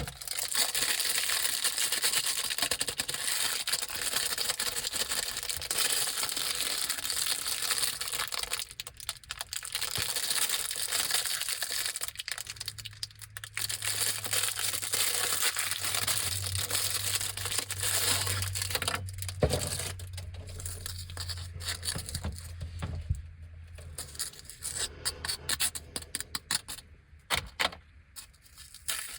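Plastic snack packaging of Anpanman vegetable rice crackers crinkling and tearing open, with dense rustling for most of the time and a run of sharper crackles and clicks near the end.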